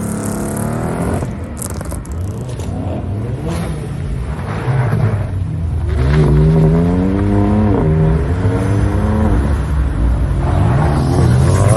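Sports car engines as cars pull away, one accelerating hard: its engine note climbs in pitch and drops sharply twice at the upshifts, then climbs again near the end, over the steady low running of other engines.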